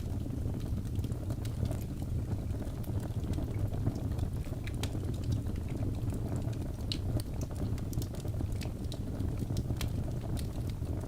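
Wood logs burning in a fireplace: a steady low rush of flame under irregular crackles and small pops, with a sharper pop about seven seconds in.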